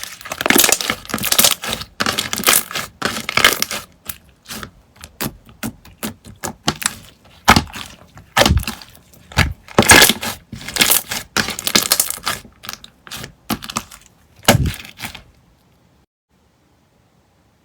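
Slime handled by hand, giving runs of sharp crackling and popping clicks in bursts; the sounds stop abruptly near the end.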